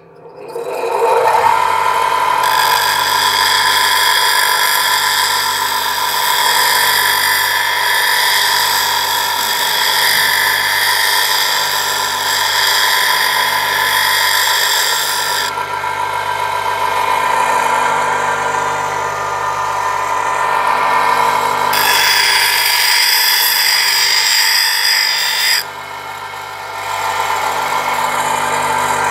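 Electric grinding wheel spinning up to a steady whine, with a carving chisel pressed against the wheel in two spells of hissing grinding, a long one and then a shorter one, to sharpen its edge.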